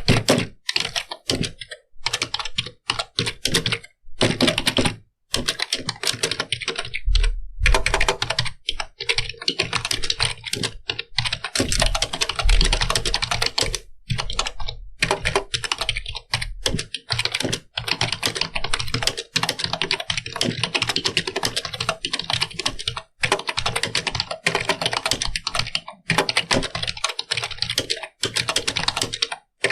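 Computer keyboard being typed on fast, a dense run of key clicks broken by short pauses between bursts of typing.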